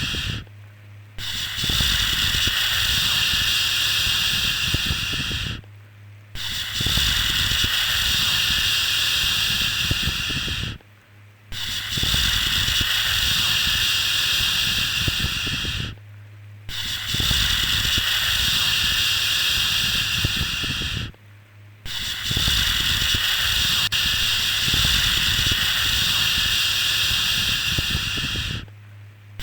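A sleep-aid 'shhh' shushing sound for babies: long, even shushes of about five seconds each, broken by short pauses of about half a second.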